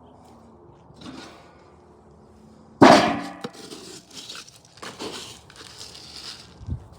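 A single loud metallic clang about three seconds in, ringing briefly as it fades, followed by a few seconds of irregular rattling and scraping.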